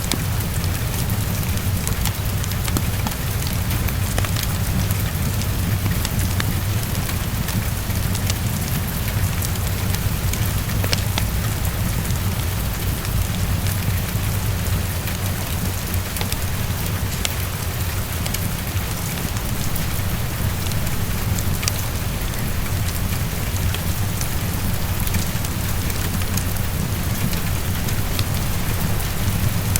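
Heavy rain falling steadily, with a constant low rumble underneath and scattered light ticks of individual drops or crackles.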